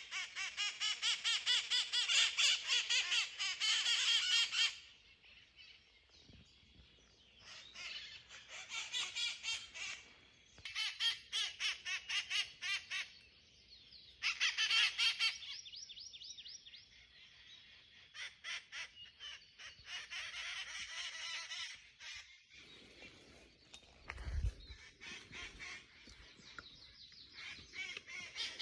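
A flock of wild parrots calling in fast runs of rapidly repeated harsh notes. A long loud run opens, followed by several shorter bursts with quieter gaps between them. A brief low bump comes about three quarters of the way through.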